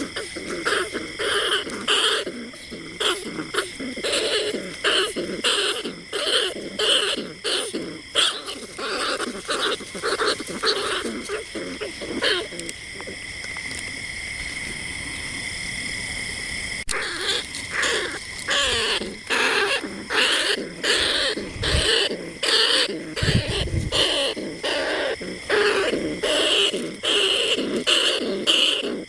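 Rats squeaking in rapid, repeated high calls, a recorded rat call used to lure bandicoot rats and field rats. About halfway through, the quick squeaks give way for a few seconds to a steadier held high note.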